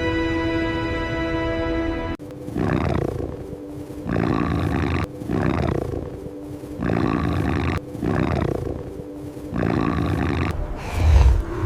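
A held music chord, then a wolf snarling in a series of about six rough growls, one every second or two. A deep boom comes near the end.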